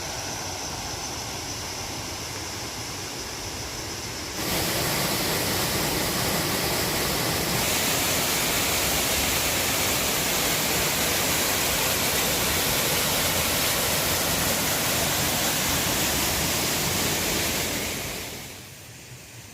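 Steady rush of flowing river water, getting louder in two sudden steps about four and seven seconds in, then fading out near the end.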